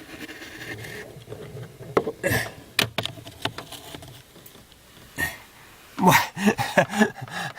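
Rustling handling noise with a few sharp clicks and knocks, then a short stretch of wordless voice near the end.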